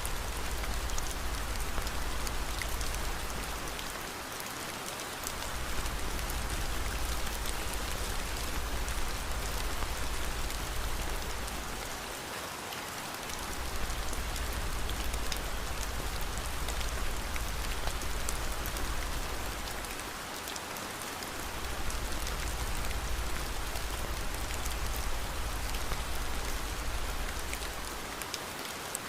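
Steady rain falling, an even hiss with scattered faint ticks of drops, over a low rumble that drops out briefly four times, about eight seconds apart.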